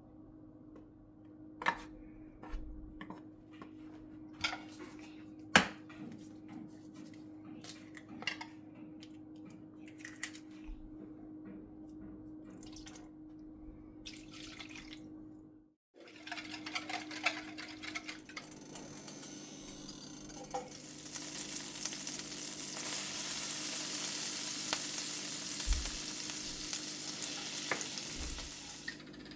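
Kitchen work: scattered clinks and knocks of utensils against dishes and pans over a steady low hum, then, after a brief break, a steady hiss that swells and holds for the last several seconds.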